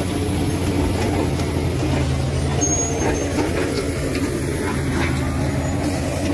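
Bulldozer's diesel engine running steadily, with a few faint knocks.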